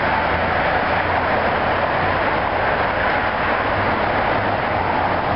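Train running: a steady noise with a low engine hum underneath.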